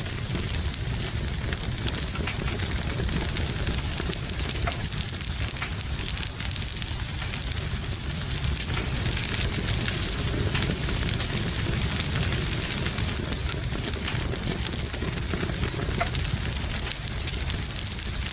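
Wood fire crackling in a fireplace, with irregular small pops and snaps over a steady low rumble, and a continuous hiss of rain.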